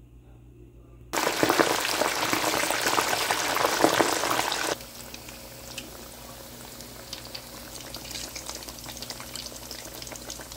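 Slices of boiled pork belly deep-frying in hot oil to crisp up. A loud, dense crackling sizzle starts suddenly about a second in, then drops abruptly a few seconds later to a quieter, steady sizzle with scattered pops.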